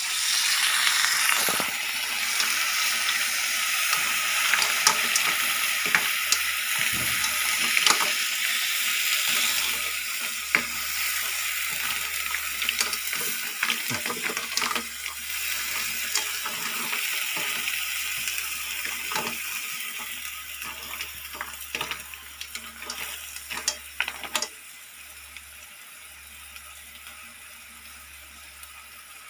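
Mussels in their shells sizzling in a metal pot, stirred with a spatula, with frequent sharp clicks of shells and spatula knocking against the pot. Near the end the sizzling drops away suddenly and only a faint hiss remains.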